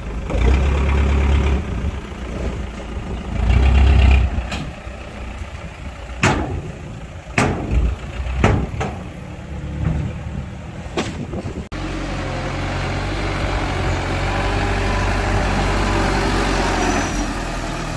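Heavy diesel earthmoving machinery running, its engine surging twice early on over a low rumble, with several sharp knocks over the next several seconds. Near the middle the sound changes abruptly to a steady, even engine drone.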